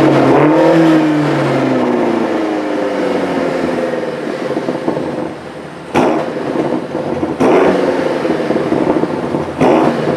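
BMW M8 Competition's 4.4-litre V8 engine running hard, its pitch rising briefly and then falling away over the first few seconds. It surges suddenly three more times, about six, seven and a half and nine and a half seconds in.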